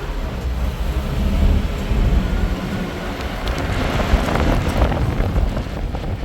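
Wind buffeting the microphone in a snowstorm: a steady, gusting low rumble with a hiss of wind above it.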